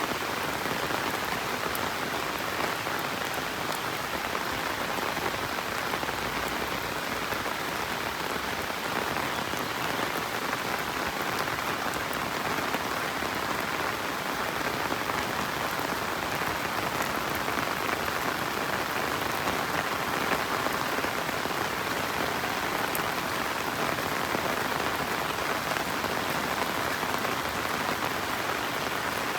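Steady rain falling on the ground and foliage, an even hiss with scattered drop ticks.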